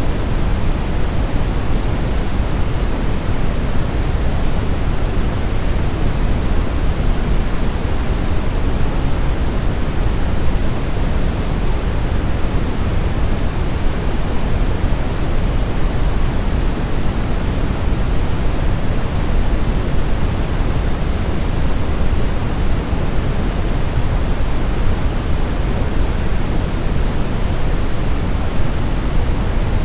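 Steady brown noise: a constant deep rushing hiss, heaviest in the low end, with no changes or events.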